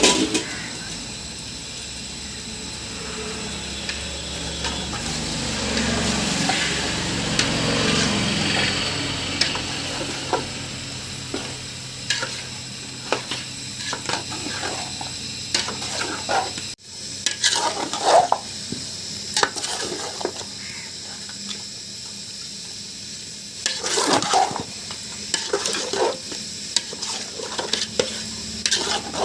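A spoon stirring and scraping through a pan of frying chicken masala, with a steady sizzle under the strokes. About seventeen seconds in the sound breaks off and resumes with sharper, separate scrapes against the pan.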